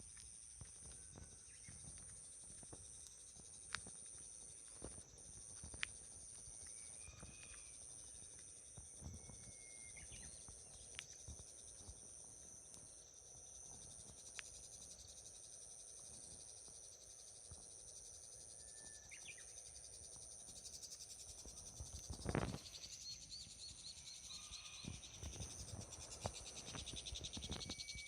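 Insects trilling steadily on two high notes, with a few short bird chirps and scattered light clicks; a single louder thump about 22 seconds in.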